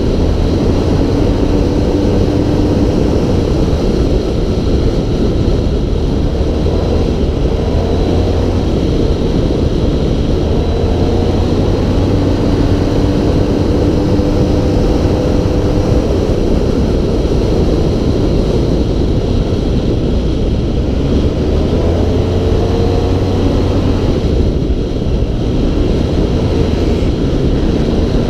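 Off-road vehicle's engine running hard on the move over a steady low rumble of ride noise, its note rising several times as it revs and changes speed.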